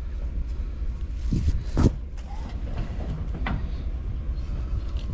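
An engine idling with a steady low rumble, with a few sharp knocks and clanks of equipment being handled, the loudest about two seconds in.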